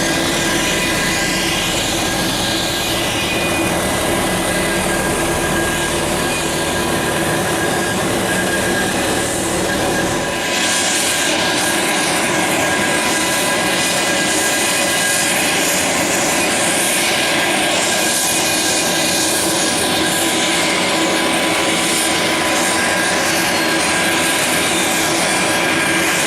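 Business jet's turbofan engines running on the ground, a steady whine of several high tones over a broad hiss. About ten seconds in the low rumble drops away and the hiss grows brighter.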